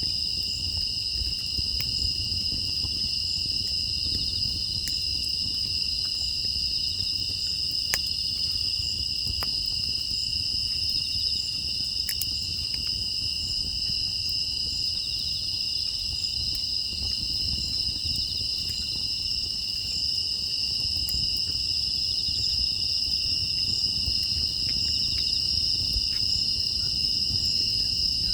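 Crickets and other grass insects chirring steadily in two high-pitched bands, over a low background rumble, with a few faint scattered clicks.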